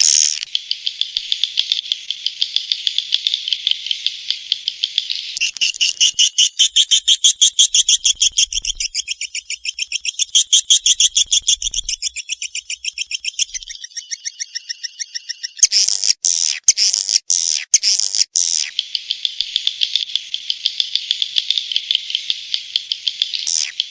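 Swiftlet call recording (suara panggil walet) used as a lure to draw swiftlets to a nesting house: dense, rapid, high-pitched chirping trills, shifting through several phrases, with a choppier, broken passage about two-thirds of the way in.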